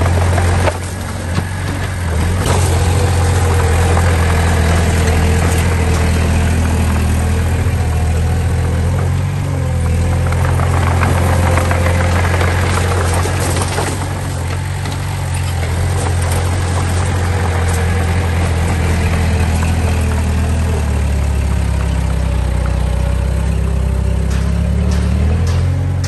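Diesel engine of heavy earthmoving machinery running steadily with a deep hum. Its pitch drops lower for a few seconds near the end.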